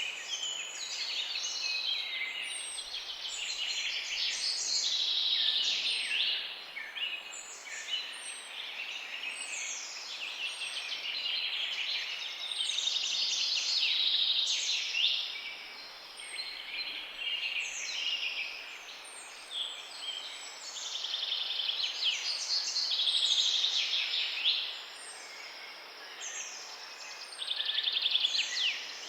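Several songbirds chirping and trilling at once in a dense, continuous chorus of overlapping high calls.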